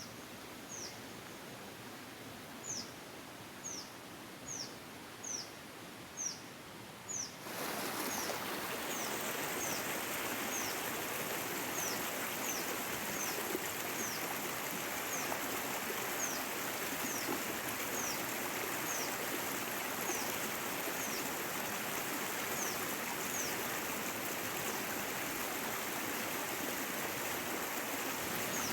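Stream water running with a steady rush that gets louder about seven and a half seconds in. A bird repeats a short, high, falling call roughly once a second throughout.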